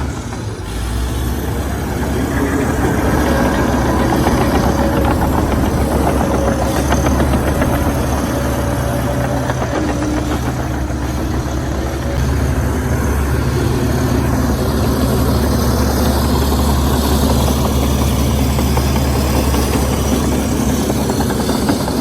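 Heavy diesel engine of earthmoving machinery running steadily, growing louder about two seconds in as it works.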